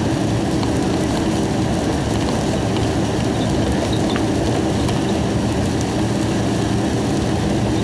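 Steady engine and road noise of a corn-hauling truck on the highway, heard from inside the cab.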